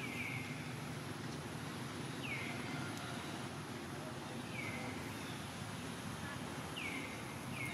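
A bird's short falling whistled call, repeated about every two seconds, four times, over a steady outdoor background hiss.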